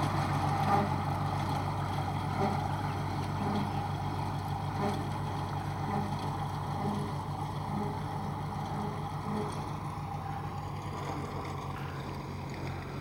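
Old Farmall tractor engine running steadily at an even low pitch, slowly growing fainter.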